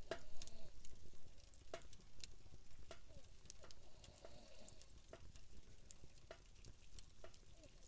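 Wood campfire crackling: small pops and snaps at irregular intervals, with a sharper snap right at the start.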